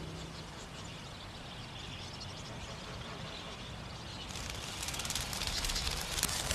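Faint outdoor background, then from about four seconds in a fast crackling spatter of water: a fledgling budgerigar splashing and struggling in water.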